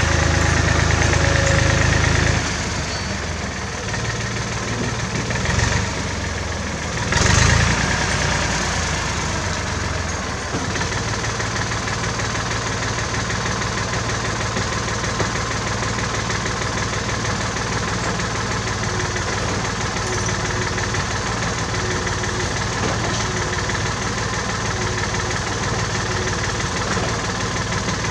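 1967 David Brown tractor engine running, throttled down about two seconds in, then idling steadily, with two brief louder swells a few seconds later.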